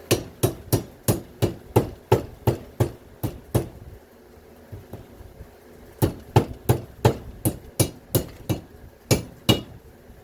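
Rapid, evenly paced hammer blows, about three a second, on a front-load washing machine motor, smashing the glue off its copper windings. The blows stop for about two seconds midway, then resume.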